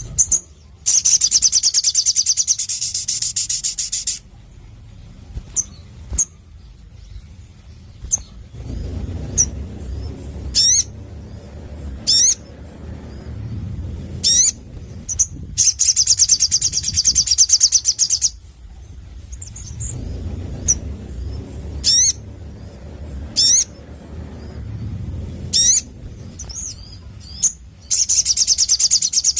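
Sunbird singing: three long, loud, high rapid trills, with single sharp, high whistled notes between them.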